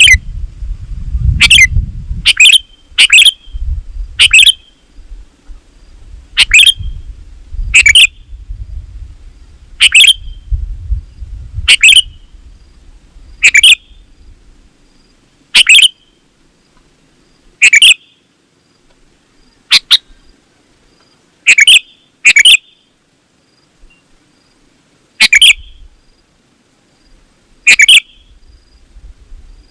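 Sooty-headed bulbul (kutilang) calling loudly: short, quick, sweeping notes repeated about every one to two seconds, some in close pairs. A low rumble sits under the calls in the first half.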